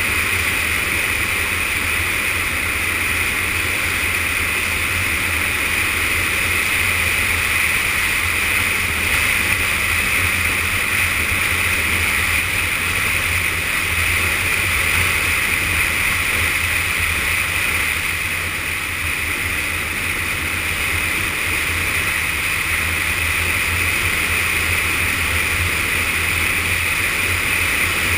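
Yamaha FZS600 Fazer's inline-four engine running at steady cruising speed, its low drone blended with wind and road noise as picked up by a GoPro on the moving motorcycle. The level stays even, with a slight dip about 18 to 20 seconds in.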